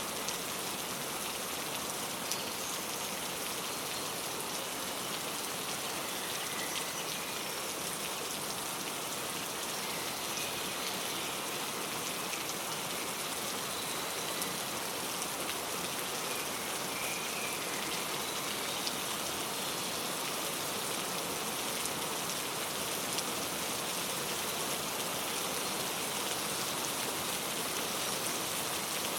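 Steady rain falling, with many small drop ticks, and a few faint, short bird chirps now and then.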